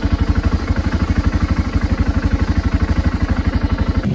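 BMW F 650 GS's 652 cc single-cylinder four-stroke engine idling, a rapid, even beat of firing pulses.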